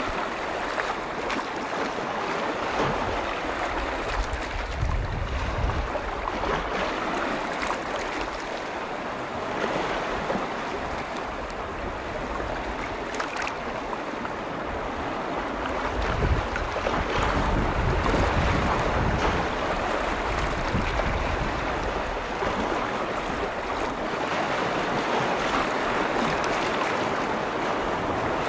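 Lake waves washing in continuously, rising and falling in swells, with gusts of wind rumbling on the microphone now and then.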